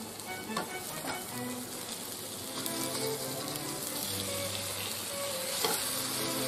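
Chicken pieces sizzling as they fry in a pan, while a spoon turns them, with a few short taps and scrapes of the spoon against the pan.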